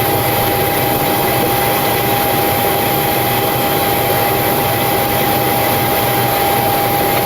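Steady cockpit noise of a Boeing 727-200 with its three Pratt & Whitney JT8D turbofans still running at idle: an even rushing hiss with a constant high whine over it, unchanging throughout.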